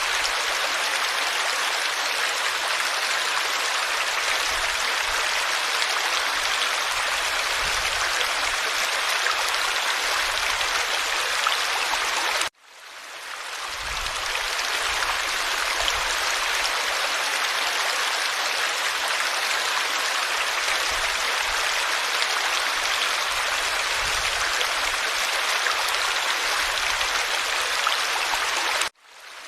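Forest stream flowing steadily over rocks, an even rushing and babbling of water. It cuts out abruptly about twelve seconds in and again near the end, each time fading back in over a second or two.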